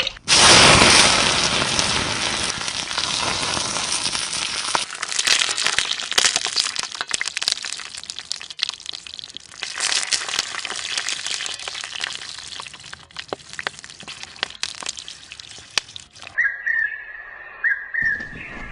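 Food sizzling in hot oil: a loud hiss that starts suddenly and fades over several seconds, with crackling and popping running on for about sixteen seconds before it cuts off.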